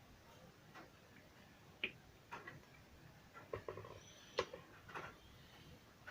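Faint, scattered light clicks and taps at irregular moments, the sharpest about four seconds in, from small tools and parts being handled during bench repair work on a portable speaker.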